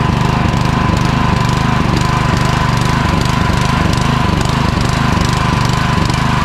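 Honda small engine on a pressure washer idling steadily with an even, rapid firing beat and a steady high whine, warming up after a carburetor cleaning. It is idling a little better, no longer stumbling and shutting off at low idle.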